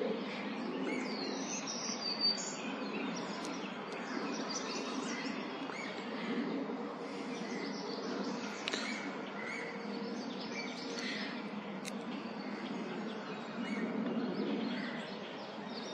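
Small birds chirping and calling in short, scattered notes over a steady low background noise.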